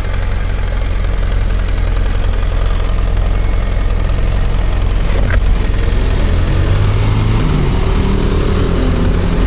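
BMW F800GS motorcycle's parallel-twin engine running on the move, with steady road and wind noise. About two-thirds of the way in, the engine note becomes clearer and changes pitch as the revs change, and there is a single short click a little past halfway.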